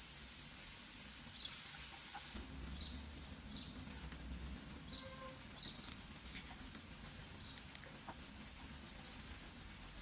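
A small bird chirping faintly, short high chirps repeated irregularly about once a second, over a low steady hiss with a few light clicks.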